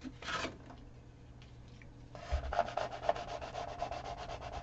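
Vinyl transfer tape on a canvas being burnished with a scraper in rapid back-and-forth rubbing strokes, about six or seven a second, starting about two seconds in. A brief rustle comes near the start.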